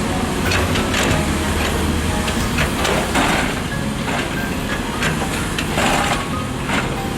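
Excavator diesel engine running steadily, with several short, irregular bursts of hissing noise over it.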